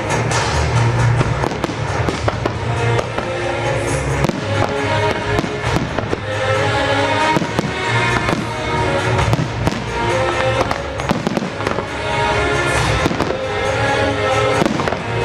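Fireworks shells bursting in rapid, irregular bangs and crackles over loud music from the show's sound system, part of a pyromusical.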